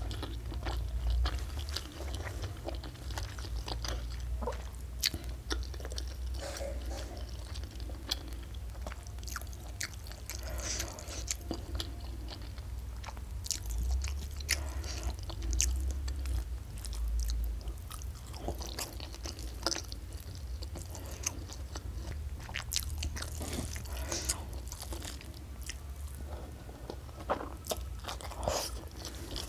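Close-miked chewing and biting of a hand-eaten meal of fish and rice: a continuous run of wet mouth clicks and smacks with occasional crunches.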